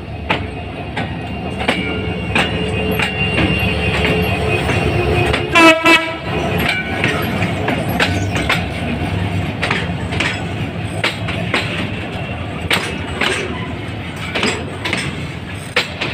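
Hyundai Rotem 3000-class diesel-electric locomotive running past at close range with a container train, its engine a steady low drone, with one short, loud horn blast about six seconds in. The wheels of the container flatcars click and clatter over the rail joints as they roll by.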